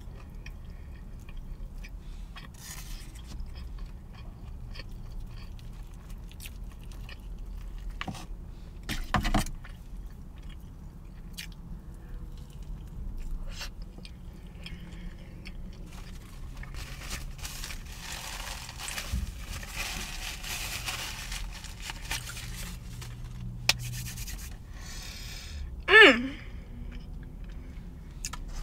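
A person chewing and eating a fried chicken sandwich, with light scraping and rustling of the paper food box. About nine seconds in there is a louder bite, and near the end a short, loud sound that sweeps sharply down in pitch.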